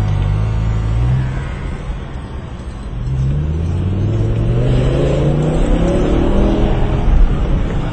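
Car engine running and accelerating, with a brief rev near the start and then a pitch that rises steadily for several seconds as the car speeds up.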